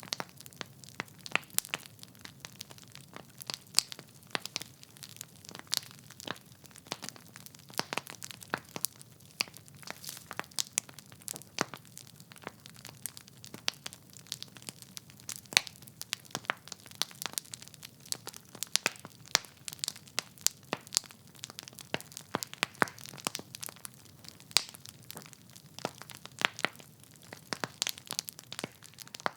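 Wood fire burning in a fireplace: logs crackling and popping in irregular sharp snaps, several a second, over a low steady hiss of flame.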